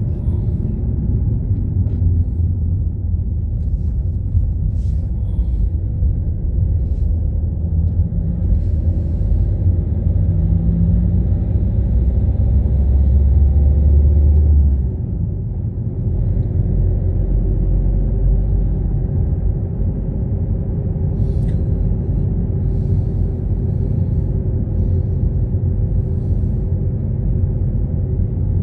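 Car being driven: a steady low engine and road rumble, which drops a little about halfway through.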